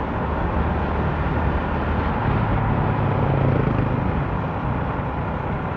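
Motorcycle engine running steadily under way, with road and traffic noise.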